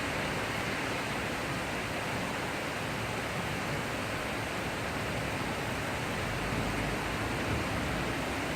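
Heavy rain falling steadily in a thunderstorm shower, an even hiss with no let-up.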